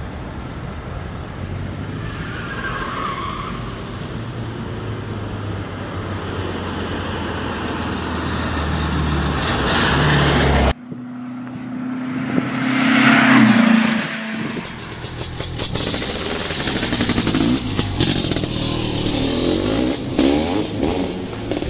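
Classic VW Beetle's air-cooled flat-four engine running as the car drives, slowly getting louder. After a sudden cut, the car passes close by about 13 seconds in, loudest there and dropping in pitch, then drives on.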